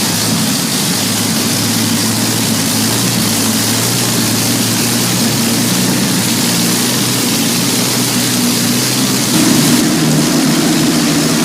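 Rolls-Royce Merlin 27-litre V12 aero engine running steadily, getting a little louder about nine seconds in.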